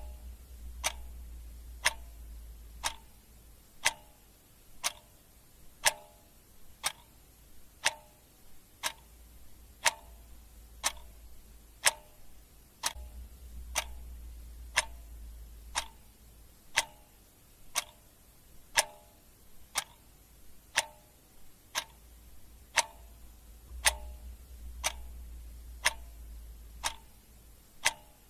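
Clock ticking steadily at about one tick a second, each tick a sharp click with a short ring.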